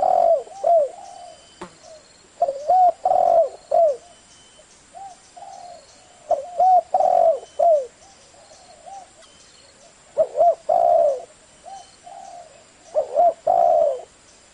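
Spotted dove (cu gáy) cooing in the deep 'giọng thổ' voice, the call used to stir up decoy doves. Low, curved phrases of several notes repeat about every three to four seconds, five times, with fainter coos in between.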